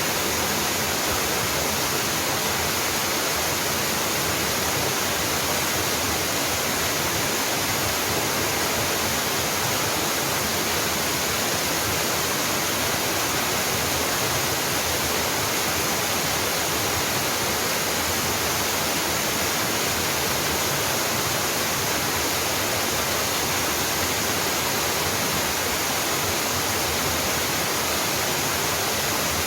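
Small mountain waterfall splashing down rock, a steady even rush of falling water that does not change.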